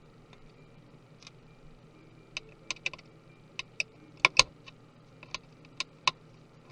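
Sharp, irregular clicks and taps of small hand tools and parts being handled while a MacBook Pro is taken apart, about a dozen in a few seconds, the loudest a little past the middle.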